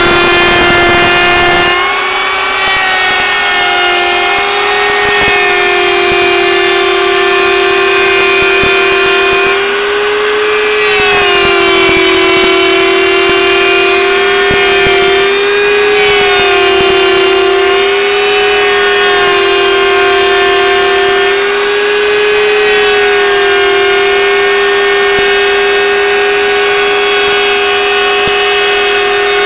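Two tandem-mounted routers running at full speed: a steady high-pitched motor whine that sags in pitch for a moment several times as the bits bite into cedar strips fed through, cutting the bead and cove edges.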